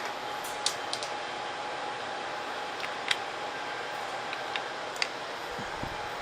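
A few short, sharp plastic clicks from handling a battery-powered air-conditioner controller, over the steady fan and airflow noise of the running server room units.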